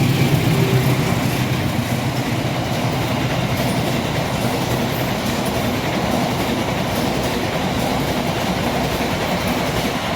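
A train running through the station close by, with a steady rumble and clatter of its wheels on the rails.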